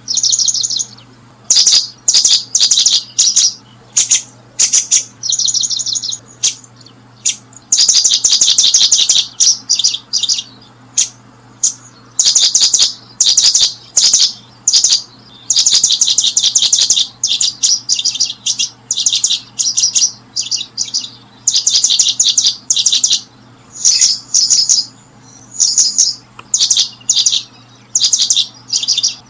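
Small birds chirping: rapid, high-pitched runs of chirps in bursts of a second or so, with short gaps, over and over, above a faint steady low hum.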